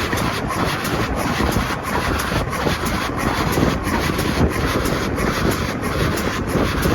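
A train in motion, giving a steady, loud rumble and rattle.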